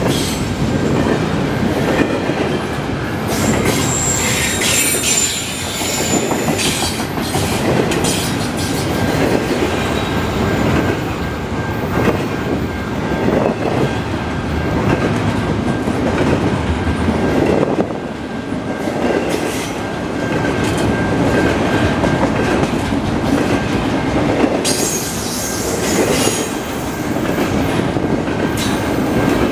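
Double-stack intermodal well cars rolling past: steel wheels rumbling and clattering over the rails, with a thin steady wheel squeal and brighter bursts of high squealing about four seconds in and again near the end.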